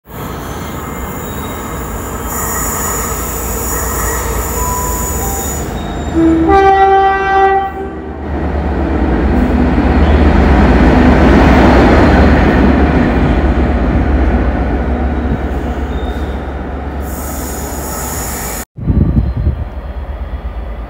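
A train sounds a short two-note horn blast, about a second and a half long, and then passes close by with a deep rumble that swells and fades. The sound cuts off abruptly near the end.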